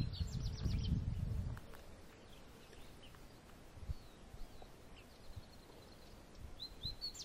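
Wild birds chirping and singing: a quick run of high notes near the start and again near the end, with a few scattered chirps between. A low rumble fills the first second and a half.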